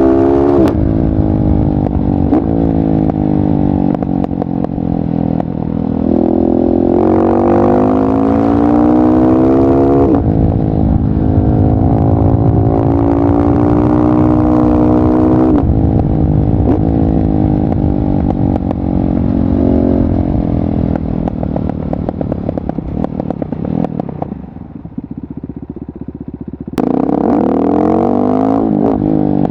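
KTM 690 SMC R single-cylinder supermoto engine through a LeoVince exhaust, pulling through the gears: its pitch climbs and drops sharply at each upshift. It then winds down slowly, falls to a quieter low-rev lull about 24 seconds in, and the throttle opens again sharply just before the end.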